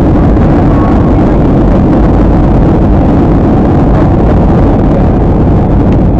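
Steady roar of an airliner's jet engines and airflow heard inside the passenger cabin, loud and unchanging.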